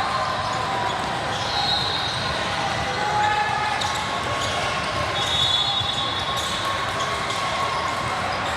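Basketball being dribbled on a gym court, with voices of players and spectators echoing in a large hall.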